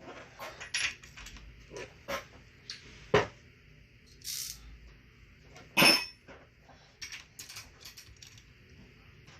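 Metal tools and parts being handled while working on a chainsaw: scattered clicks and clinks, with two sharp knocks about three and six seconds in and a short hiss in between.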